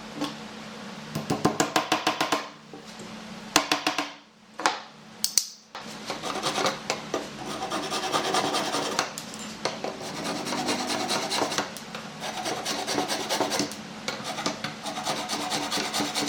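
Wood being rubbed by hand with an abrasive tool such as sandpaper or a rasp: quick back-and-forth strokes in short bursts, then a longer run of steady rubbing from about six seconds in.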